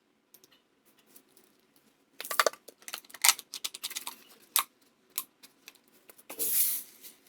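Scissors cutting a plastic bottle: a run of irregular sharp snips and clicks, thickest in the middle, with a short rustling burst near the end.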